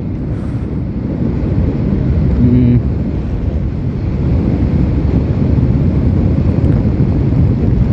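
Steady wind noise buffeting the microphone over the running motorcycle's engine and road noise while riding at speed.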